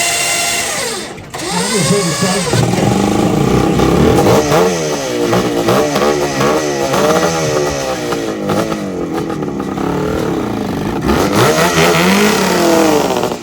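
Rickman Metisse motorcycle engine being revved, its pitch repeatedly rising and falling in quick blips, with a brief dip about a second in.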